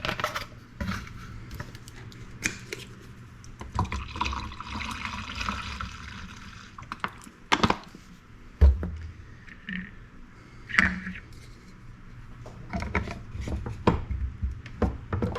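Water poured into the plastic cup of a spray gun for about three seconds, around the middle, amid scattered knocks and clicks of the cup and bottle being handled.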